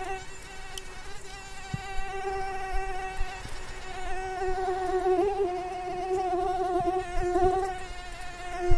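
Mosquitoes buzzing (a sound effect): a steady, thin whine that wavers slightly in pitch.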